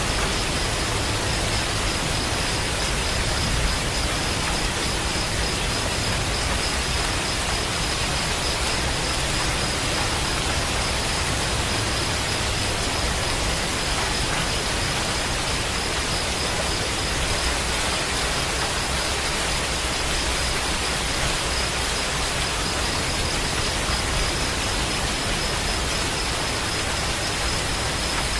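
Steady, unbroken rain hiss, even and unchanging, with a faint steady high tone running through it.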